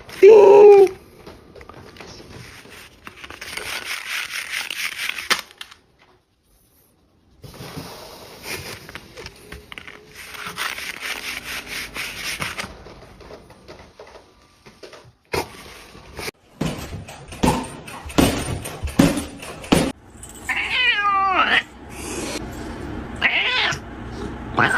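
Domestic cats meowing: a loud short meow right at the start, then scratchy noise and a run of sharp knocks, and wavering, falling meows near the end.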